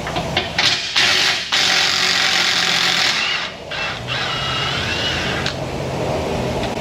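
A handheld power tool running in two long bursts, spinning out the bolts that hold a front lower control arm.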